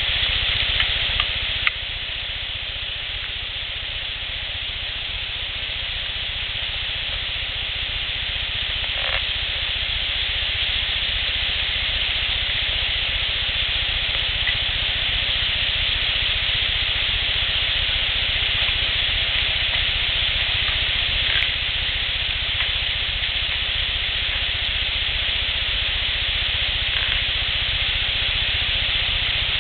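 Steady hiss of outdoor background noise on an unattended field recording, with a low rumble beneath it and a few faint, scattered clicks.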